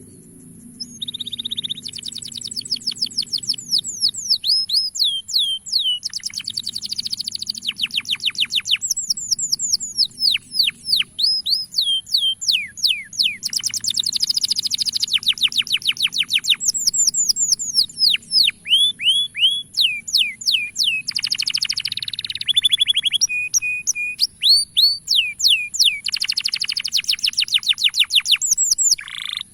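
Male canary singing: long trills of fast, repeated, downward-sliding whistled notes, broken by short pauses and a few briefly held notes.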